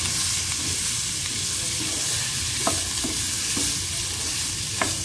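Cauliflower florets sizzling in a little hot oil in a pan as a wooden spatula stirs them, with a few sharp taps and scrapes of the spatula against the pan. This is the light roasting of the spiced florets in oil.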